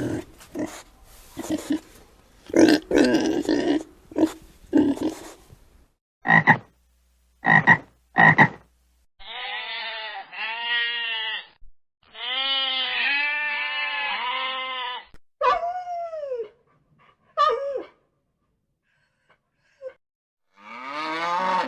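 A run of animal calls. First comes about six seconds of rough grunting, then three short croaks, then two long pulsing trills from a toad. A couple of falling calls follow, and a cow's moo begins near the end.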